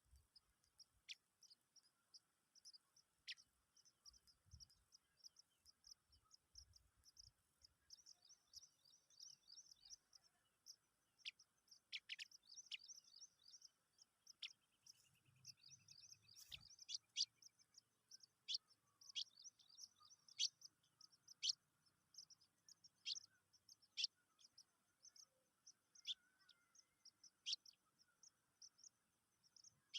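Small songbird nestlings begging: a continuous rapid, high-pitched peeping, broken often by louder, sharp down-slurred chirps.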